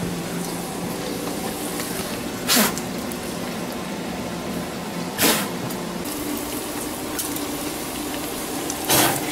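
Hot grease sizzling steadily in a frying pan with bacon frying in it, with three brief louder bursts of hiss: about a third of the way in, about halfway, and near the end.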